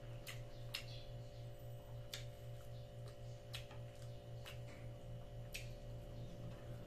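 A person chewing a mouthful of food with lips parted: sharp wet mouth clicks and smacks about once a second. A steady low electrical hum runs underneath.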